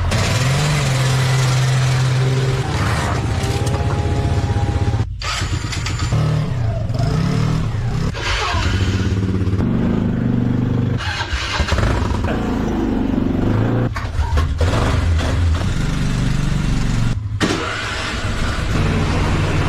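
Engines of off-road vehicles running one after another, idling with shifts in speed, in short stretches that break off abruptly about four times.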